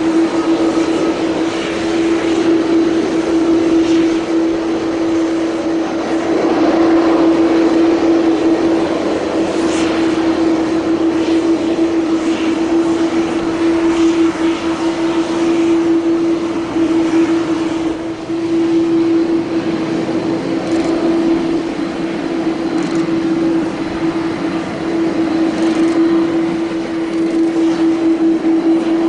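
Jet airliner engines running, a loud steady drone with one constant low tone held throughout.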